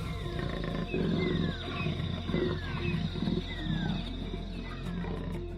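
A big cat growling in several rough, low bursts, roughly a second apart. Short falling whistles repeat over it, with a steady high whine and a low drone beneath.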